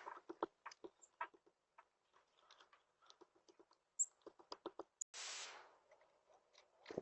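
Birds in front of the camera: light, irregular tapping and clicking, two short rushes of noise (one right at the start, one about five seconds in), and a few faint, brief high chirps.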